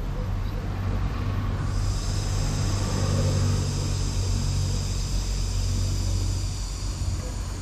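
Steady low rumble, with a high, even buzzing drone of cicadas starting about two seconds in and stopping just before the end.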